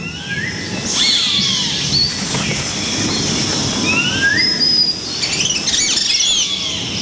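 Birds calling in rainforest ambience: several separate whistled calls that slide up and down in pitch, with a quick cluster of short high chirps about six seconds in.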